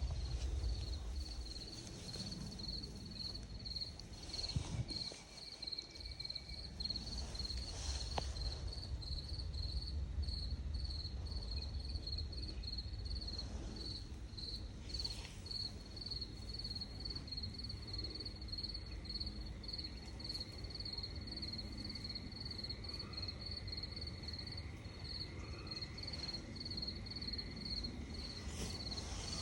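An insect chirping steadily: a high, evenly repeated chirp about three times a second, over a low rumble of wind and movement.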